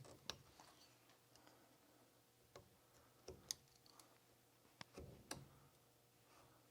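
Carving knife cutting into a wooden stick, with faint, sharp clicks at irregular intervals as the blade bites and chips the wood.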